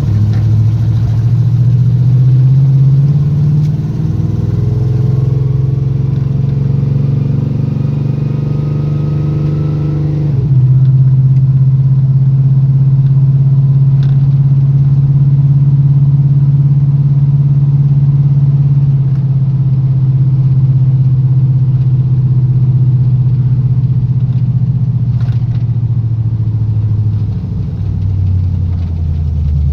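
Squarebody Chevy truck's engine pulling hard under full acceleration, its pitch rising for about ten seconds, then dropping suddenly at an upshift and running on steadily before the revs fall near the end. It runs clean, with its carburettor freshly adjusted and a loose spark plug wire reconnected.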